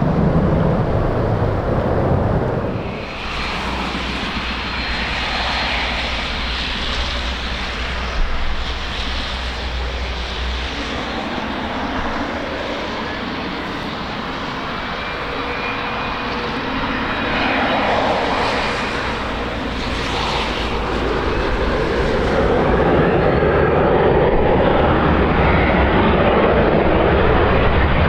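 Jet airliner engines running close by, a continuous rushing noise with a faint steady whine over it. It grows louder over the last third. Heavy low wind rumble on the microphone runs under it.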